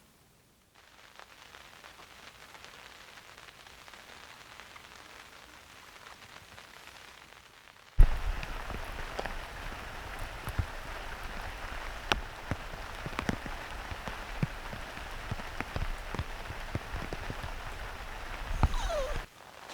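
Rain falling on a Coleman Party Shade fabric canopy. It is faint at first, then after a sudden cut about eight seconds in it is much louder, with many separate drops striking the shade.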